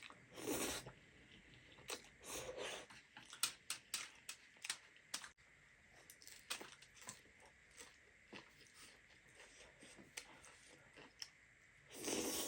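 A person chewing and eating close to the microphone: wet clicks and small crunches throughout, with three louder half-second noisy mouth sounds, about half a second in, around two seconds, and near the end.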